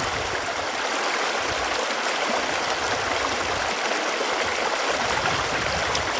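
Running water flowing steadily, an even, unbroken splashing with no pauses or changes.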